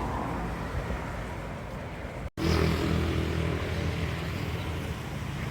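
Motorcycle being ridden: wind and road noise. After an abrupt cut about two seconds in, a steady engine hum comes through.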